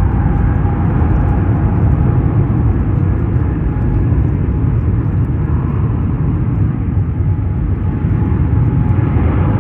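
Jet airliner engines rumbling loudly and steadily, with a faint whine early on.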